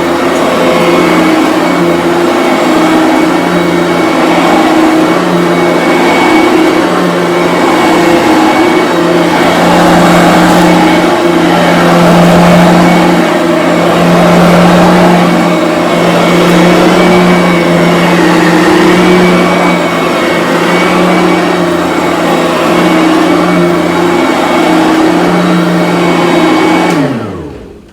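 Bissell BigGreen Commercial upright vacuum cleaner running on carpet: a loud, steady motor whine over a rush of air, swelling and easing in level. Near the end it is switched off and the motor winds down, its pitch falling.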